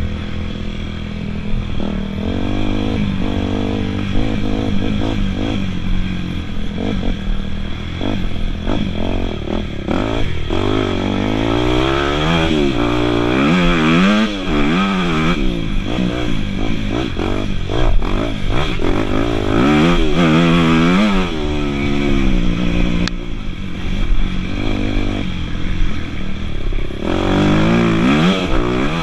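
Motocross dirt bike engines repeatedly revving up and dropping back in pitch as they accelerate and shift gears, with more than one bike at times.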